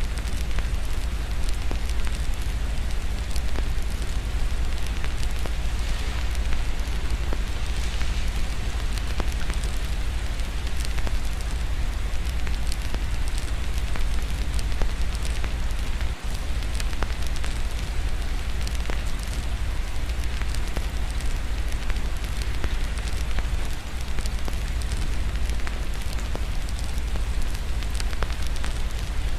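Fireplace fire crackling with many small irregular pops over a steady hiss of rain, with a constant low rumble underneath.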